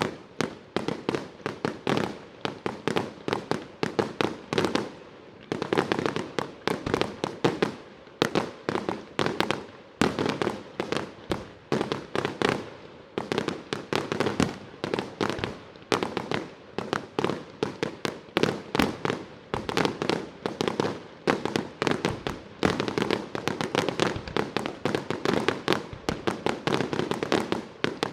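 Aerial fireworks bursting in a rapid barrage: dense sharp bangs, several a second, that start suddenly and keep going without a break.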